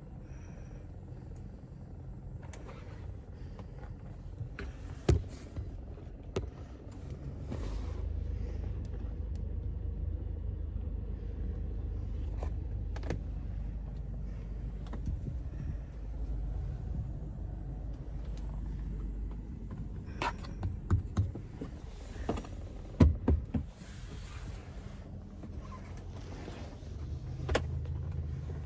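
Toyota Innova Crysta: a steady low hum, louder through the middle stretch, with scattered sharp clicks and knocks of controls being worked.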